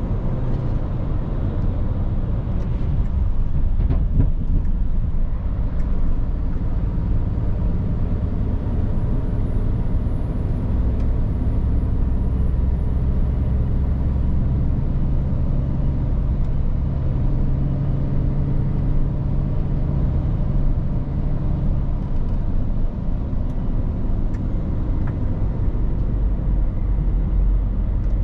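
Scania R450 truck's diesel engine running steadily on the move, a low drone mixed with road and tyre noise.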